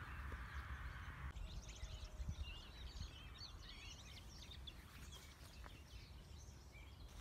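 Birds chirping and calling faintly, many short twittering notes, over a low wind rumble. A steady hiss cuts off about a second in.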